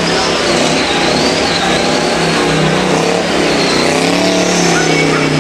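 American V8 engine held at high revs during a burnout, the revs sagging and rising again, with a high wavering squeal of spinning tyres.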